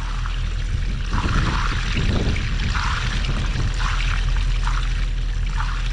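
Water pouring and trickling from the cut-open waterline as it drains into the trench, in uneven splashing spurts, over a steady low hum.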